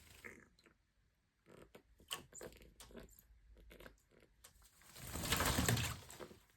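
Excited pet pig noises in a bath: a run of small clicks and squeaks, then a louder, breathy rush lasting about a second and a half near the end.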